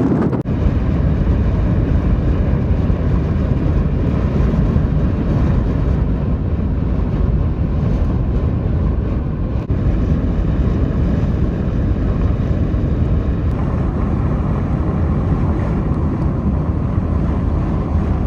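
Loud, steady rumbling noise with no clear tone, heaviest in the low end; its character shifts abruptly about thirteen seconds in.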